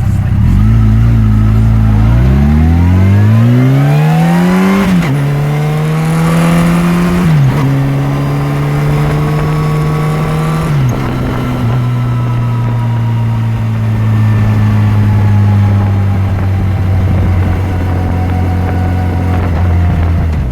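Yamaha FJR1300's inline-four engine accelerating through the gears: its pitch climbs, drops sharply at each of three upshifts in the first half, then settles into a steady cruise that eases off slowly.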